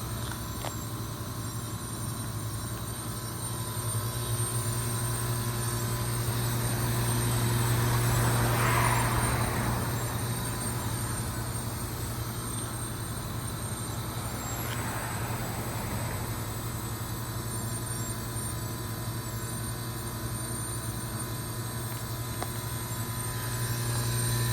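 York Olympian (Latitude 10) heat pump outdoor unit running in its defrost cycle, its compressor giving a steady low hum. Two whooshing swells rise and fall over it, the louder one about a third of the way in and a weaker one past the middle.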